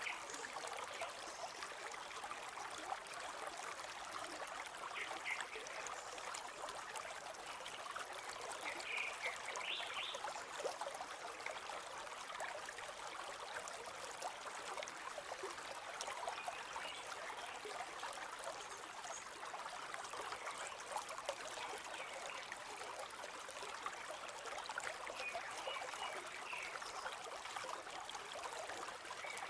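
River water flowing and trickling over stones in a steady, even rush.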